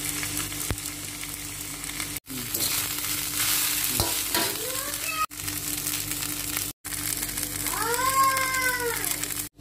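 Poha (flattened rice) sizzling in hot oil in a kadai while a steel spatula stirs and scrapes it. The sound breaks off briefly at several edits. Near the end a short pitched call rises and falls in pitch over a second, over a steady low hum.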